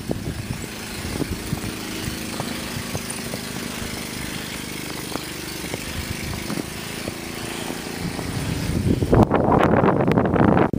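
A motor engine running steadily with a low hum. About nine seconds in, wind buffets the microphone and becomes the loudest sound.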